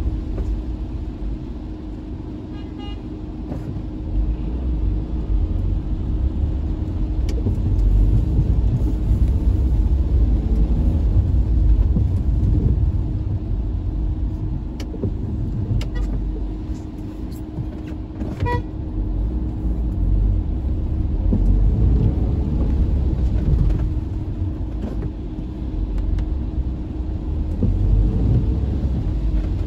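Car engine and road rumble in slow traffic, with a steady hum throughout. A few short car-horn toots, the clearest about 18 seconds in.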